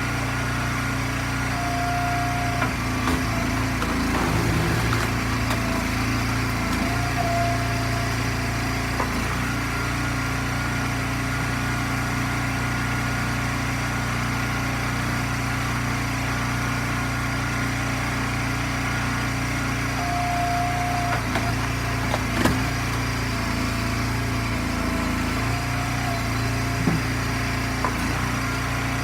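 Small gas engine of an Eastonmade firewood splitter running steadily. A brief higher tone comes twice, and there is one sharp knock partway through.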